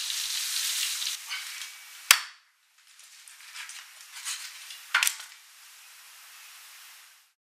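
Battered duck pieces deep-frying in hot oil in a wok, a dense sizzle that fades out after about a second and a half. Then two sharp knocks about three seconds apart; the second is a cleaver chopping into a whole raw duck on a wooden cutting board.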